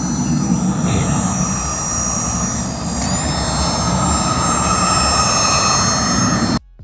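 Heat gun running while heating vinyl wrap: a steady rush of air with a high-pitched fan whine that dips and settles again about three seconds in. It cuts off abruptly near the end.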